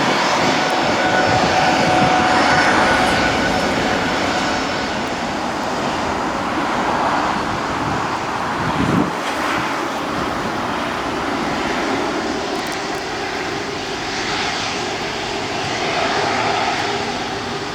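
Airbus A330-343 airliner's Rolls-Royce Trent 700 turbofan engines running: a steady rushing jet noise with a faint high whine, easing off slightly toward the end. A brief low thump about halfway through.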